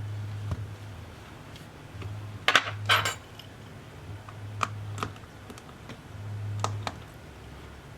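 Small metal tools or parts clicking and clinking on a hard work surface during a tablet repair, loudest in a quick cluster about two and a half seconds in. Under them runs a low hum that comes and goes in stretches of about a second.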